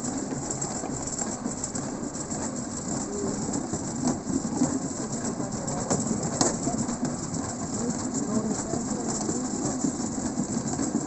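A 1945 pedal rail-cycle draisine rolling along the track, its wheels running on the rails with a steady rattle. Two sharper clicks come about four and six seconds in.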